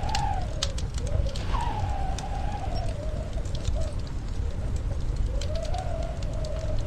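Wood fire crackling, with scattered sharp pops over a low steady rumble, while storm wind howls in a wavering tone that slowly rises and falls in pitch.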